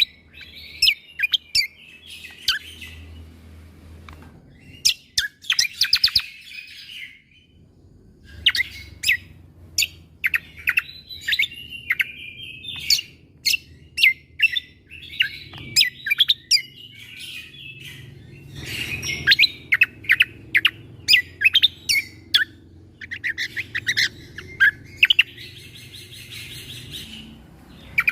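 Cucak kombo (kecial kombo) songbird singing: volleys of sharp, piercing 'shot' notes fired in quick succession, broken by short chattering warbles, with brief pauses between phrases.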